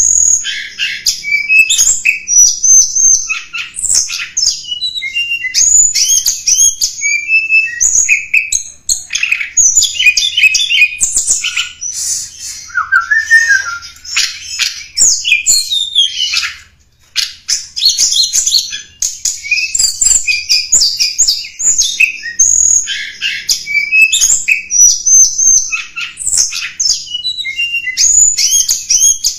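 Song of the tledekan gunung, a recorded lure call: a rapid, unbroken stream of high chirps, twitters and harsher notes, with a short pause about 17 seconds in.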